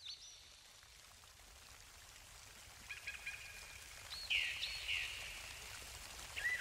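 Birds calling in short, curved chirps over a faint steady hiss that fades in from silence; a call at the start, a cluster about halfway through, and more at the end.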